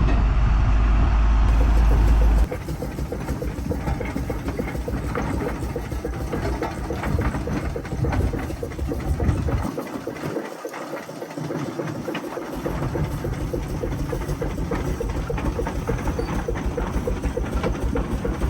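A vehicle's engine running steadily. A louder deep rumble in the first couple of seconds cuts off abruptly, and the low rumble briefly drops away about ten seconds in.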